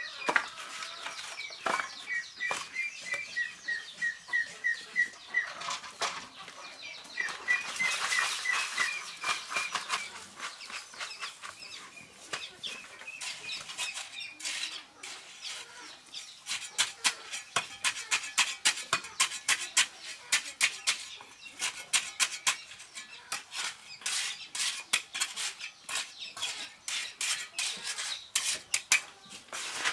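Chickens clucking in short repeated runs of calls during the first part, then a long series of quick, sharp light knocks or taps, several a second.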